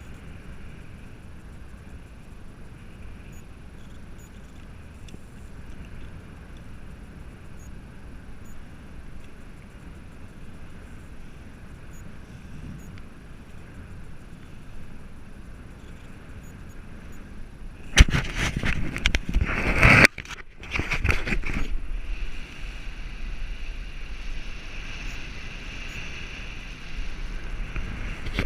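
Wind blowing over the microphone as a steady low rush. About two-thirds of the way through, a sharp knock starts loud rustling and buffeting on the microphone, in two bursts, and the wind stays louder after it.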